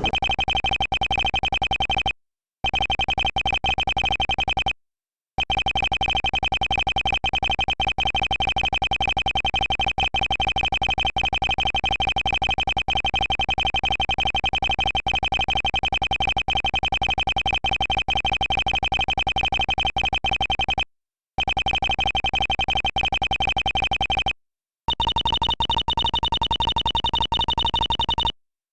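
Rapid, unbroken runs of electronic text-scroll beeps, the Ace Attorney-style dialogue blips that play as text types out, stopping briefly between lines of text. Near the end the beeps take on a different pitch.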